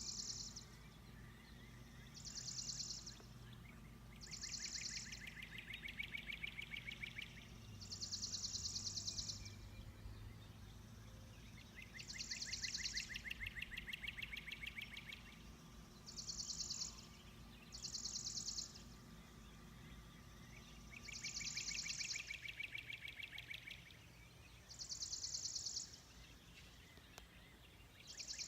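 Songbirds singing at dawn: short, very high-pitched phrases every couple of seconds, alternating with longer, lower, rapid trills.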